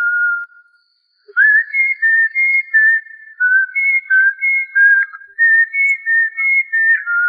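A person whistling a tune: a run of short, clear notes stepping up and down, with a brief pause about a second in.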